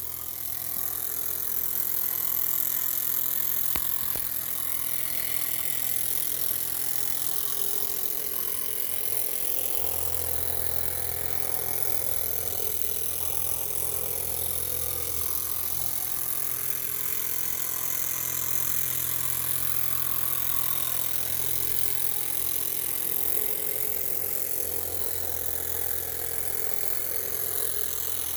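Miniature live steam traction engine running: a steady hiss with mechanical noise underneath, unbroken throughout.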